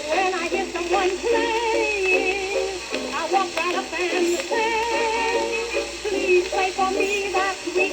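A 1921 record playing: an early-1920s tune with wavering melody notes and no bass.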